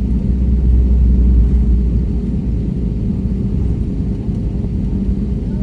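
Airbus A320neo airliner noise: a steady low rumble with a constant hum over it. The deepest part of the rumble eases about two seconds in.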